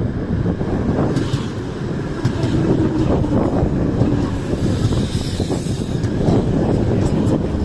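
A train running past, a loud steady rumble of wheels and carriages on the track, with a brief high hiss about five seconds in.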